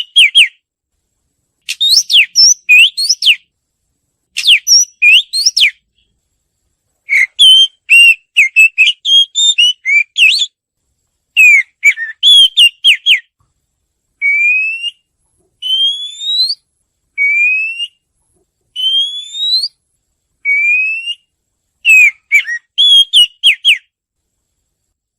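Oriental magpie-robin singing: bursts of varied, rapid whistled phrases separated by short pauses. In the middle comes a run of five rising slurred whistles, evenly spaced.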